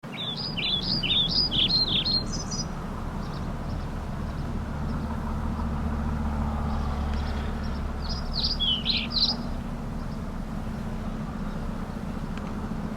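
A songbird singing two quick phrases of rapid, jumping chirps, one at the start and another about eight seconds in, over a steady low hum.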